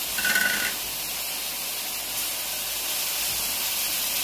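Oil sizzling under onions, tomatoes and green chillies frying in a wok, a steady hiss, with a brief scrape of the paste bowl near the start.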